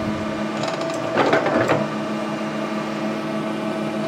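Metal lathe running with a steady motor hum, a three-jaw chuck holding the flashlight, and a short louder rattle a little over a second in.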